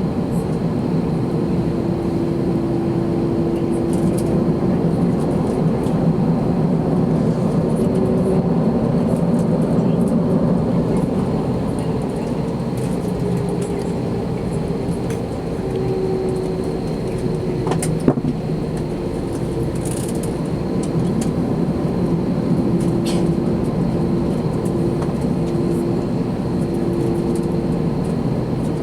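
Steady jet engine and air noise heard inside an Airbus A321 cabin: a constant hum with a low drone and no rise in power. A single sharp click comes about eighteen seconds in.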